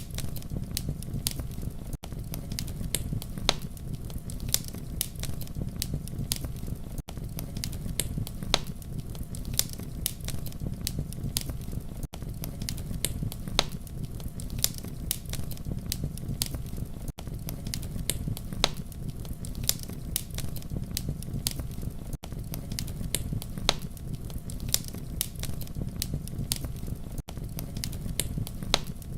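Campfire crackling: sharp irregular pops and snaps over a steady low rumble of flame. Short dropouts about every five seconds show it is a looped recording.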